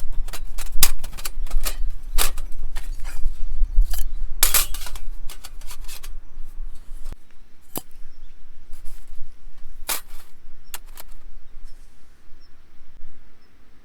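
Irregular sharp clicks and light knocks, many in the first seven seconds and fewer after, over a low rumble that stops about seven seconds in.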